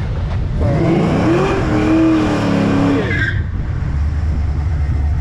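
A car engine revs up hard and holds at high revs, with squealing, spinning tires. It stops abruptly a little past three seconds in, leaving the low hum of an engine idling.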